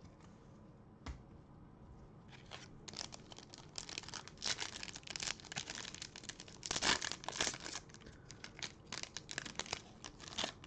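Baseball card pack wrapper being torn open and crinkled, a long run of rapid rustles and tears. A single knock sounds about a second in.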